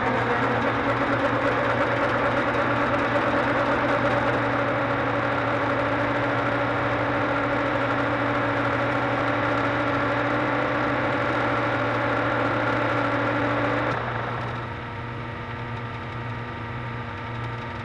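Metal lathe running steadily, with a steady hum and a few steady higher tones. About fourteen seconds in, it turns quieter as the higher tones drop away.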